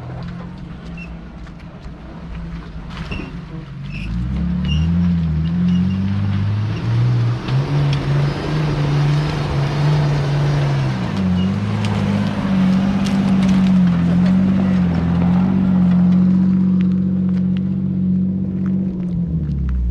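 Off-road SUV engine working under load, loud from about four seconds in, its pitch rising and falling with the throttle, then easing off near the end. Scattered clicks and knocks come through it.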